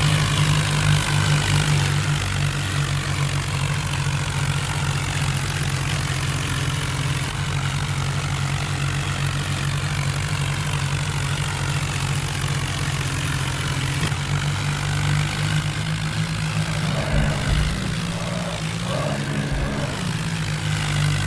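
Tractor engine running steadily, with its speed briefly dipping and rising a few times near the end.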